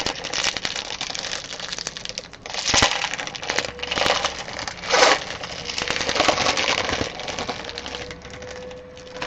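Trading cards and their plastic wrappers and cases being handled, with irregular crinkling, rustling and sharp plastic clicks.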